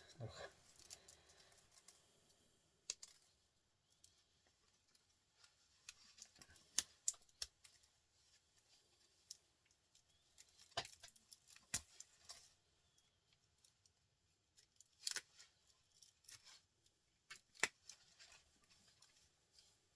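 Scattered sharp clicks and light metallic taps at irregular intervals, from small metal parts of a printer motor being handled and picked apart by hand.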